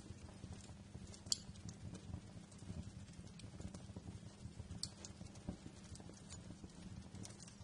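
Wood fire crackling: a steady run of small irregular crackles and ticks, with a few sharper pops, the loudest about a second in, over a low steady hum.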